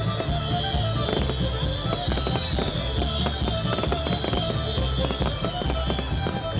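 Fireworks crackling and popping in quick succession over a country fiddle-and-band instrumental.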